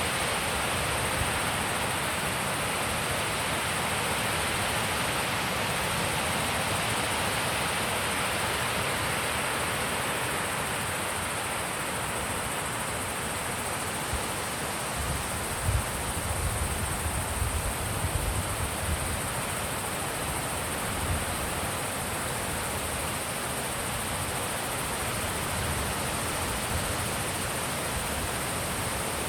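Wind blowing steadily, with a few brief low gusts about halfway through.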